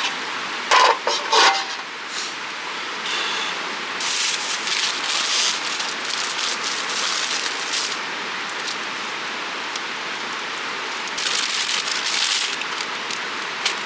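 Pork cutlet deep-frying in hot oil, a steady sizzle that swells twice, with two short knocks about a second in.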